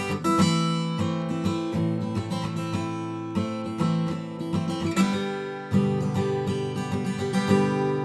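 Acoustic guitar strumming chords as an instrumental passage, each strum ringing out before the next.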